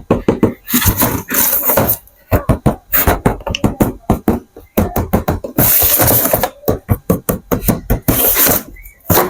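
Rapid, irregular clicking and knocking with bursts of rustling, typical of plastic toys and their packaging being handled.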